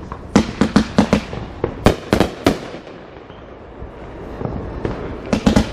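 Fireworks going off in quick volleys of sharp cracks and bangs, one cluster early on and another a second or so later. A quieter lull follows around the middle, then another rapid burst near the end.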